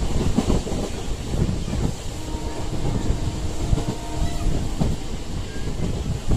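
MEMU electric commuter train running at speed, heard from inside a coach: a constant rumble with wheels clattering over the rail joints. A faint steady tone sounds for a few seconds in the middle.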